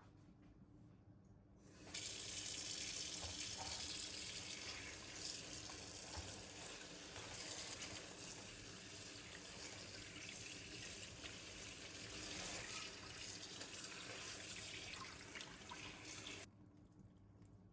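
Kitchen tap running into a sink as a steady stream, turned on about two seconds in and shut off near the end.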